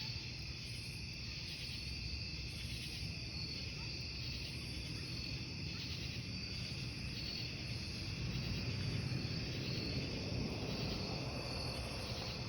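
A chorus of crickets chirping in steady, pulsing trills, over the low, steady rush of a wood campfire burning.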